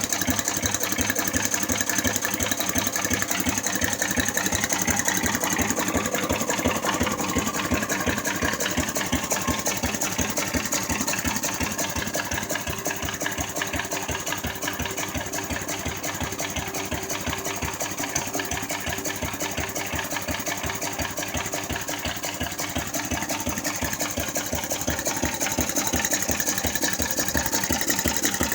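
Buzacott 4C vertical engine running with an even, rapid beat, a little quieter through the middle stretch and picking up again near the end.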